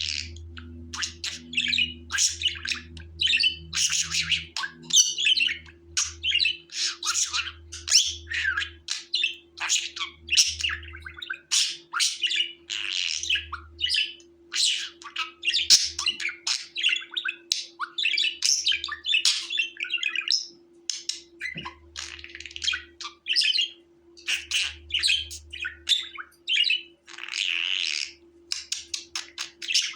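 Budgerigars chattering: a continuous stream of quick chirps, warbles and squawks.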